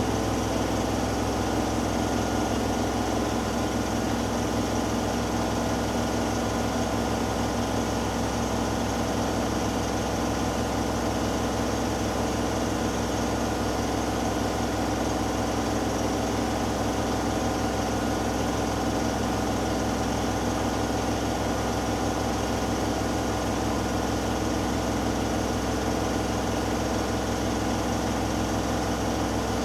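Hoover Dynamic Next washing machine in its final spin, the motor and loaded drum running steadily at high speed with an even hum and fast fine pulsing.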